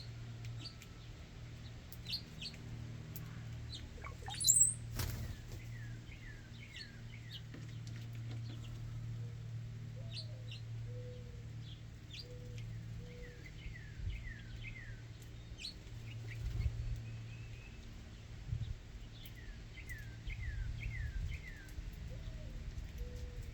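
Backyard songbirds chirping: short series of quick downward-sliding chirps repeat several times, with scattered high single notes and one loud, sharp high call about four and a half seconds in. A steady low hum runs underneath.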